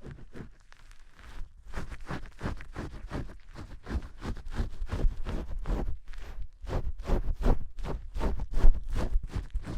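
Vigorous shampooing: fingers rapidly scrubbing lathered hair, about five rubbing strokes a second. The scrubbing is softer for the first second and a half.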